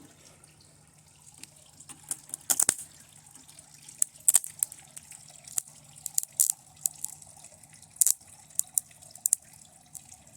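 TV circuit board burning under high current from a lead-acid battery, giving off irregular sharp crackles and pops, some in quick clusters, over a faint steady low hum.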